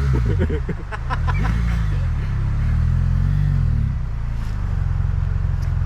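Adventure motorcycle engine revved up and down about three times, then settling to a steady idle about four seconds in. It is the throttle being worked on and off by a rider short on clutch control.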